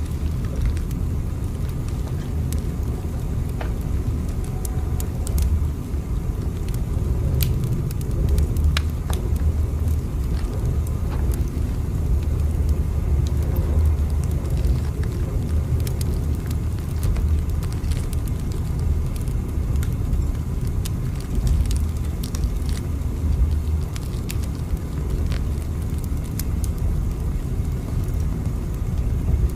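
Steady low rumble of a moving train, with faint scattered clicks over it.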